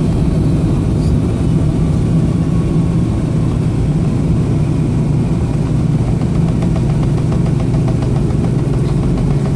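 Boeing 757-232's Pratt & Whitney PW2037 turbofans running at low, idle-level thrust, heard inside the cabin as a steady, even drone.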